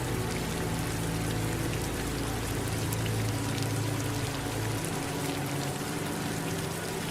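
Steady rainfall with fine drop patter mixed with the pouring sound of running water. Under it sits a low steady hum of several tones that shifts about five seconds in.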